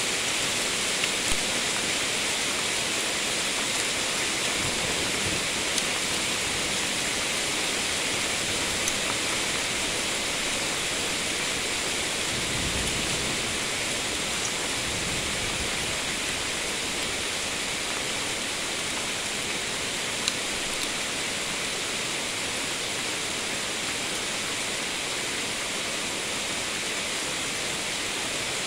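Steady heavy rain, a dense even hiss, with a few faint ticks. A short low rumble comes about 13 seconds in.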